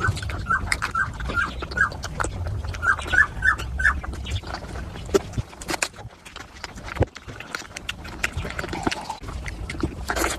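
Wet chewing and lip-smacking of someone eating curry and rice, with many short moist clicks and, in the first few seconds, runs of little squeaky smacks.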